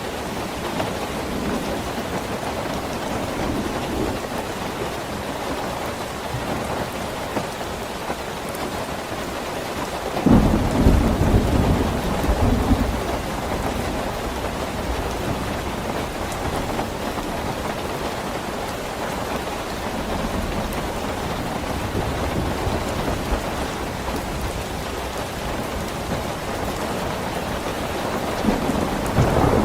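Steady heavy rain, with a roll of thunder rumbling in about a third of the way through and another beginning near the end.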